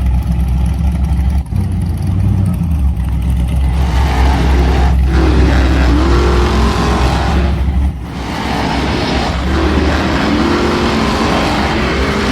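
A vehicle's motor running, with a pitch that repeatedly rises and falls from about four seconds in, as it revs.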